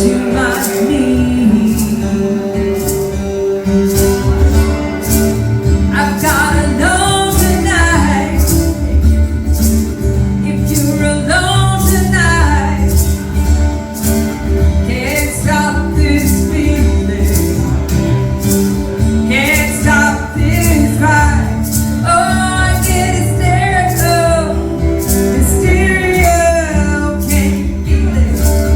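A music duo playing a song live, with a singer's voice over instrumental backing and a steady percussive beat.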